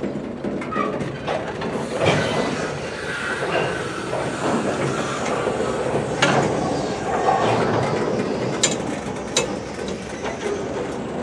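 Freight cars of a passing manifest train rolling by, steel wheels rumbling steadily on the rails with a few sharp clanks.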